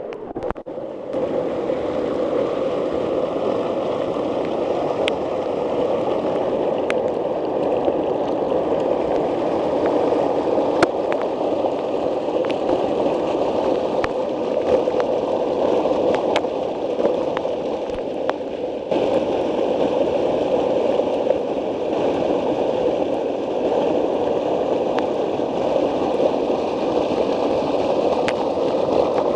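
River water pouring over a small waterfall: a steady, dense rush of falling and churning water. The sound dips briefly just after the start.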